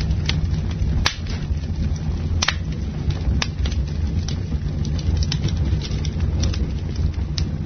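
Campfire burning: a steady low rumble of flames with sharp crackles and pops of burning wood, the loudest snaps about one, two and a half and three and a half seconds in.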